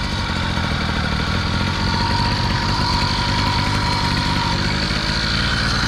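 Small motorbike engine idling steadily.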